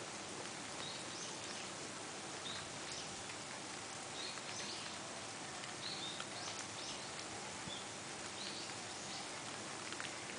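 Small birds giving short, high chirps every second or so over a steady outdoor hiss.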